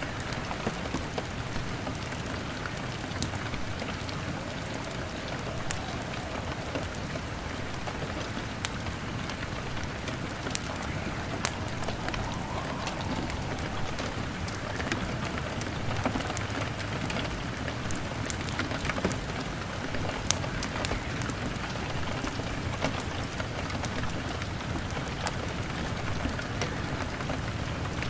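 Steady rain on a window, an even hiss dotted with many scattered sharp ticks and crackles.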